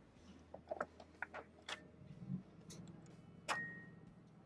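Faint clicks and clacks of a key lock box being worked as its code is punched in and the key put back. About three and a half seconds in comes a sharper metal clack with a brief ring.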